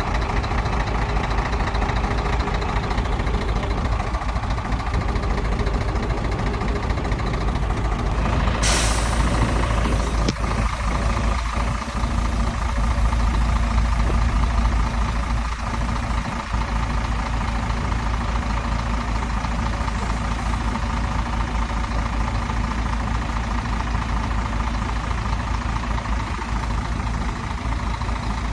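Heavy diesel engine of an earthmoving machine running steadily, with a sudden hiss of released air about nine seconds in.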